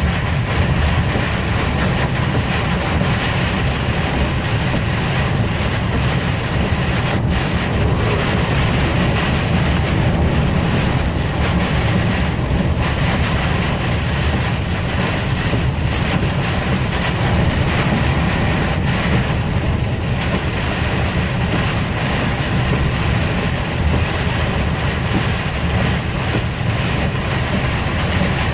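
Steady road and wind noise of a car driving at speed on the expressway in a storm, a constant deep rumble with a hiss over it.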